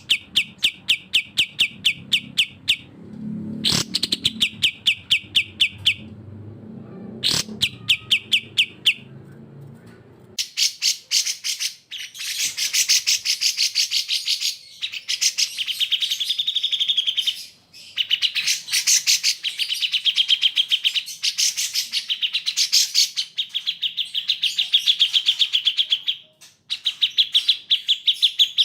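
Recorded songbird calls from a birdsong training track of cucak jenggot (grey-cheeked bulbul) and kapas tembak. A rapid run of repeated sharp notes, about six a second, plays over a low rumble for the first ten seconds. Then the recording changes to a dense, chattering song broken by short pauses.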